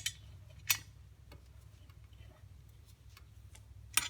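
A few sharp, irregular metal clicks as a bolt is tightened to fix an LED light's L bracket to a steel bar: two at the start, one under a second in, and a loud one near the end, over a steady low hum.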